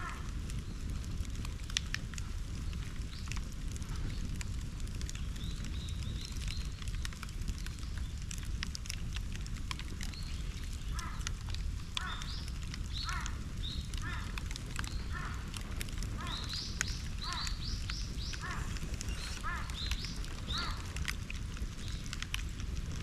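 Bonfire crackling and popping over a low steady rumble. Through the middle stretch a series of short, evenly repeated chirps sounds over the fire.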